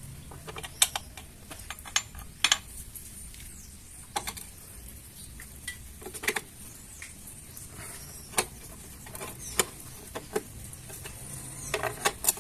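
Scattered clicks and light metallic taps of hand tools and parts as a cover is fitted and fastened on a Honda CG 160 motorcycle engine that is switched off.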